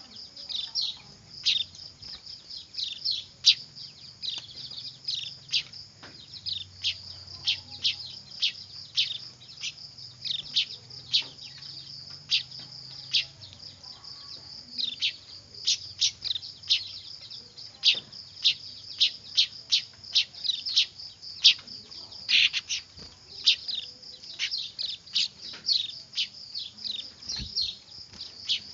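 A brood of young weaver birds (manyar) begging noisily: a dense, continuous stream of short, high chirps, each sweeping quickly downward in pitch, over a constant high chatter.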